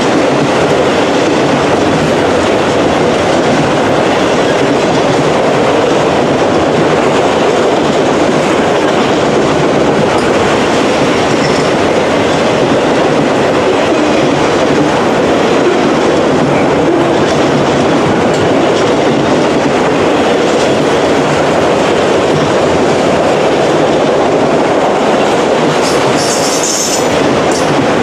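Freight train of autorack cars rolling past close by: a loud, steady rumble of steel wheels on the rails.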